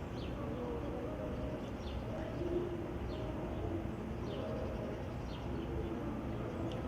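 A small bird chirping: short, high, falling chirps about once a second over a steady low hum.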